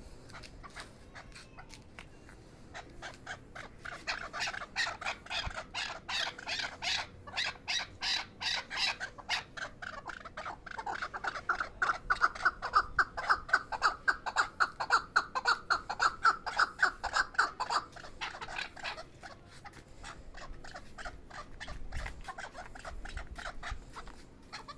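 Chukar partridge calling: a long run of rapid repeated chuck notes, about three a second, that builds to its loudest in the middle and tails off near the end.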